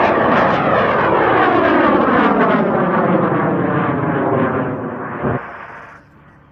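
A 114 mm O-class high-power rocket motor burning as the rocket climbs away, a loud rushing roar whose pitch pattern sweeps steadily downward as it recedes. It drops away sharply a little over five seconds in, leaving only a faint background.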